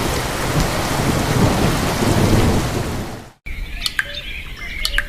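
Heavy rain with low rumbling thunder, which cuts off abruptly about three and a half seconds in; after it, a quieter stretch with a few clicks and short high tones.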